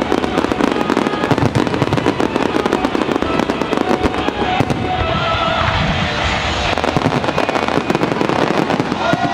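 Aerial fireworks going off in dense, rapid crackling and popping bursts, with music playing underneath.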